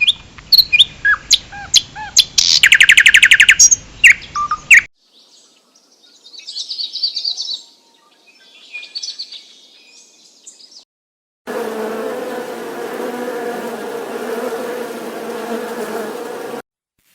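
Birds chirping, short rising and falling calls with a fast trill about two seconds in, then high scratchy chirping in two short patches. Near the end a steady buzz runs for about five seconds and cuts off suddenly.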